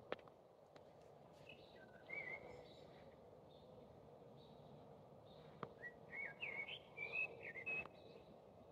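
A small bird singing in quick warbling chirps, one short phrase about two seconds in and a longer run from about six to eight seconds, over a faint steady outdoor hiss. A sharp click near the start and another about five and a half seconds in.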